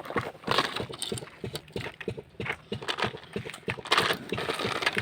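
Rapid, irregular clicking and knocking, many small hard taps in quick succession.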